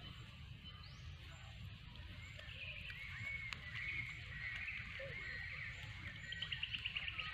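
Birds chirping, with a run of short calls starting a couple of seconds in and a fast trill near the end, over a low steady rumble.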